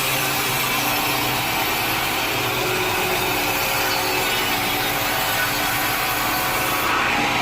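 Sawmill saw cutting through a log, a steady sawing noise. Just before the end the high hiss drops away and the sound changes.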